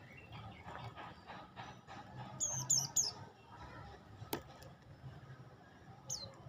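Prenjak lumut songbird giving three quick, sharp, high chirps, each sweeping down in pitch, about two and a half seconds in, then one more chirp near the end. A single sharp click comes between them.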